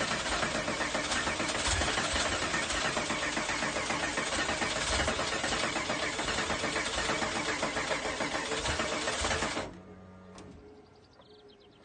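Porsche 964's air-cooled flat-six running on its first start after an engine rebuild, then cutting out suddenly about ten seconds in.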